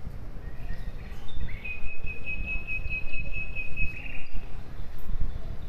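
Bird calling outdoors: a few faint chirps and one high, even trill held for about two seconds, over a steady low rumble.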